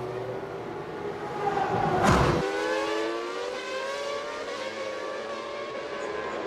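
1999 Formula One cars' 3-litre V10 engines running at high revs, several at once. One car passes close about two seconds in, its pitch falling as it goes by.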